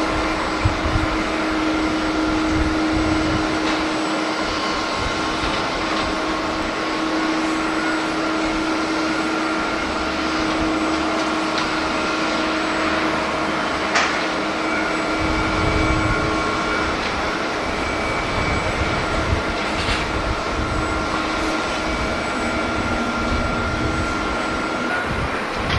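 Jet airliner engines running, a steady noise with a few held tones through it, and an uneven low rumble of strong wind buffeting the microphone.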